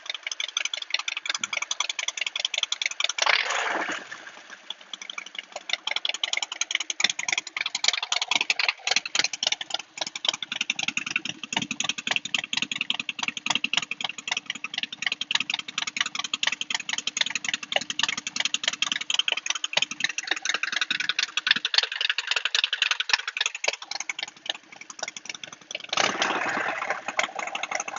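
Harley-Davidson Sportster Forty-Eight's 1200 cc air-cooled V-twin running through baffleless Vance & Hines short-shots exhaust, a fast stream of loud exhaust pulses. It swells louder twice, about three seconds in and near the end.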